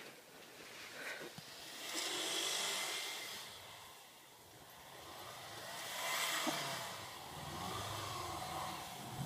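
Subaru 2.5 turbo flat-four engine running through an Apexi PS Revolution exhaust, heard faintly. There are two swells of hiss, and a steady low exhaust drone becomes clearer near the end.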